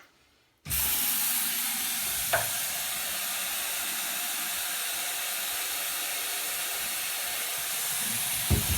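Water tap turned on and running in a steady hiss. It starts suddenly about a second in, with a short click a couple of seconds in and a few knocks near the end.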